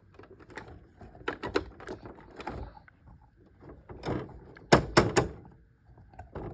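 A series of knocks and clunks, like objects being handled or bumped, with the loudest cluster about five seconds in.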